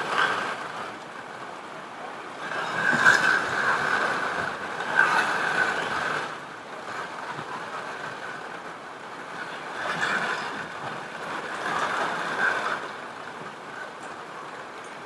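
Heavy rain falling steadily, swelling louder twice: about three seconds in and again about ten seconds in.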